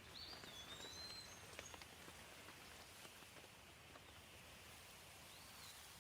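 Gentle rain falling: a faint, steady hiss with scattered drop ticks. A few high chirping glides come in near the start and once more near the end.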